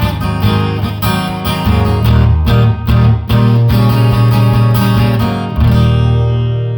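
Acoustic guitar strummed in a steady rhythm, ending on a final chord about five and a half seconds in that rings out and slowly fades.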